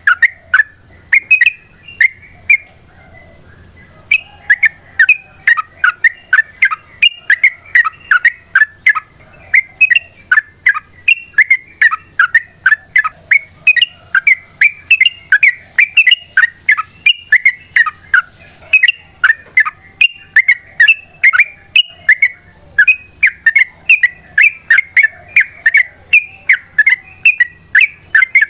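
Yellow-vented bulbul (trucukan) singing in long, rapid runs of sharp chirps, breaking off once for about a second and a half a few seconds in. A steady high-pitched whine runs behind it.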